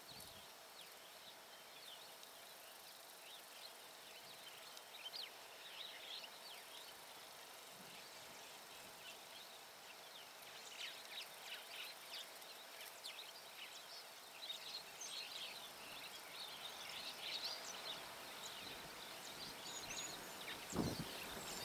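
Faint open-air ambience with small birds twittering in short, high chirps, growing busier after about ten seconds. A low thump comes near the end.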